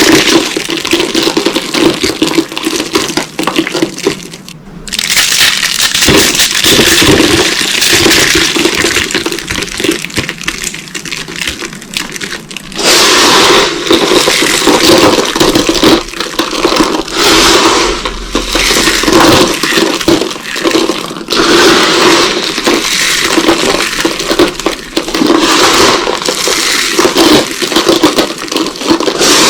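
Dry carved soap boxes being crushed: a loud, dense crunching and crackling. It drops away briefly about four seconds in, stays softer for several seconds, and turns loud again near the middle.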